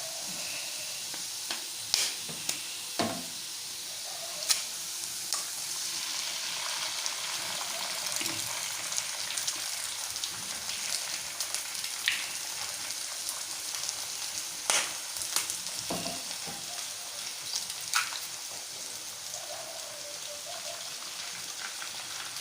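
Eggs frying in hot oil in a pan with fried onions: a steady sizzle, with sharp taps and clicks scattered through it, a cluster in the first few seconds and another about fifteen seconds in.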